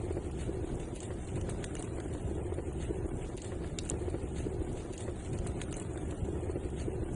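Fire burning in a fireplace: a steady low rush with scattered small crackles and pops.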